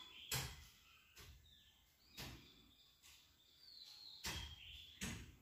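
Faint bird chirps, short calls that fall in pitch, with a few sharp clicks or knocks scattered through, about five in all.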